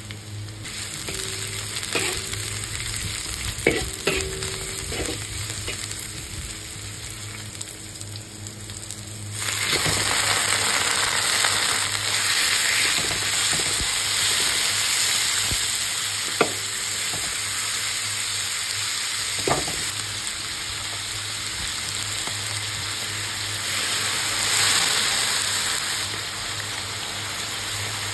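Garlic, onion and ginger sizzling in hot oil in a wok. A third of the way in the sizzle turns much louder and fuller as raw chicken pieces hit the oil and are stir-fried, with a spatula now and then knocking and scraping against the wok.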